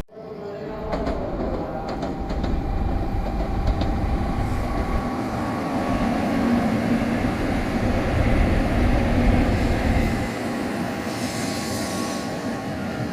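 Shinkansen bullet train running through a station: a rumbling, rushing noise that builds to its loudest about two-thirds of the way through, then eases off, with a short hiss near the end.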